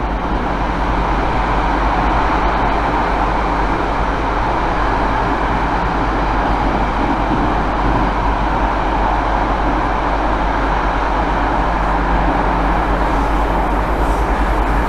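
London Underground 1995 Tube Stock train running between stations in a tunnel, heard from inside the carriage: a steady, loud running noise of wheels on rail and traction motors.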